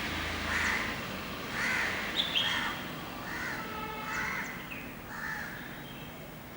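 A bird giving a series of about six harsh calls, spaced roughly a second apart, with a couple of short, higher whistled notes among them.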